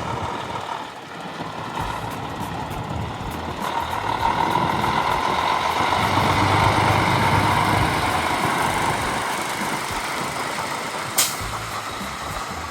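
Semi truck engine running as the rig drives through the course, growing louder toward the middle and then fading, with a brief sharp sound near the end.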